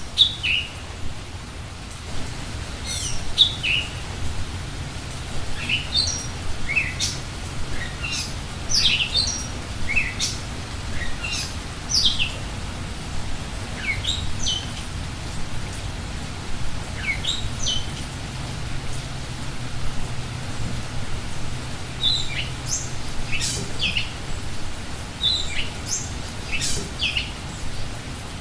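Wild forest bird calling: short, high, sharply falling notes repeated at irregular intervals, about one or two every second, over a steady background hiss.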